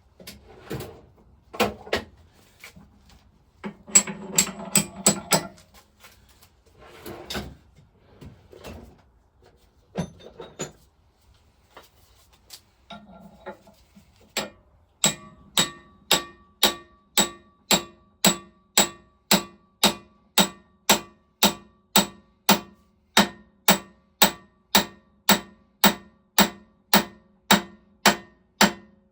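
Hammer knocking a flywheel key home on a Lister TM stationary engine's crankshaft, metal on metal. A few irregular knocks and clanks come first. About halfway in it settles into steady blows, about two a second, each with a slight ring.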